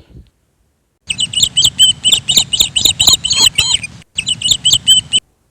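Parrot chirping: a quick run of short, high chirps starting about a second in, broken by a brief pause just after four seconds, then a few more.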